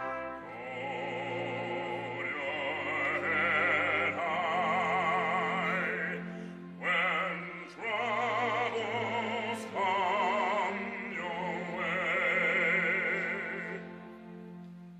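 Operatic solo singing with strong vibrato on long held notes, over a sustained orchestral accompaniment, fading away near the end.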